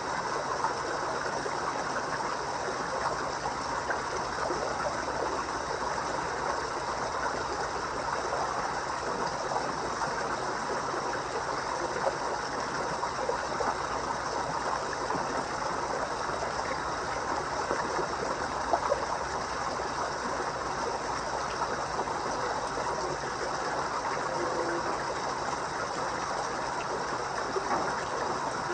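Koi pond water running and splashing in a steady, continuous rush, with small louder splashes now and then.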